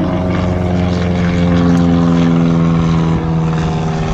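Turbine helicopter running close by: a loud, steady engine and rotor sound made of several held tones.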